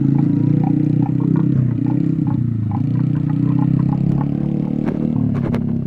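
Small dirt bike engine running steadily, with light clattering ticks over it.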